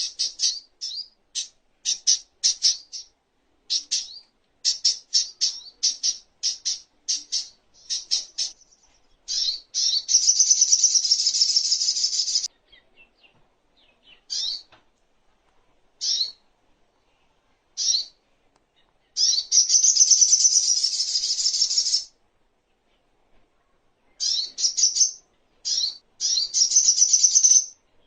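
Little spiderhunter (sogok ontong) calling: series of sharp, high chips, broken three times by a long, fast, high trill of two to three seconds.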